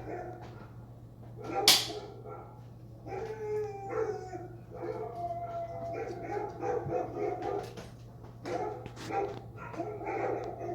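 Dogs vocalising in a string of drawn-out, wavering whines and howl-like calls. There is one sharp knock about two seconds in, over a steady low hum.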